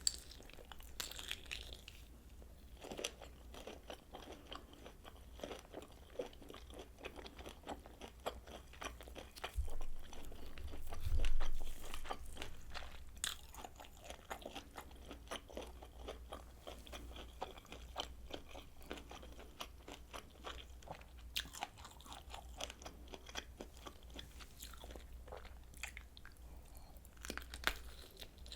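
Close-miked chewing and biting of kielbasa sausage: many quick, wet mouth clicks and crunchy bites in a steady run. A louder low bump comes about eleven seconds in.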